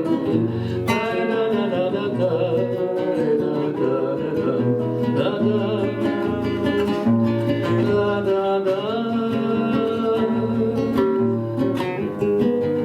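Acoustic guitar playing a strummed instrumental passage between verses of a bard song.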